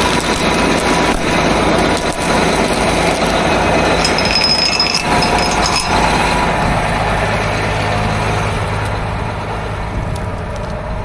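Farm tractor engine running loudly and steadily, with a low hum coming up in the second half.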